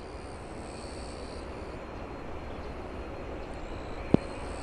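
Jet aircraft engine noise: a steady rush with a faint high whine that comes and goes. A single sharp click comes about four seconds in.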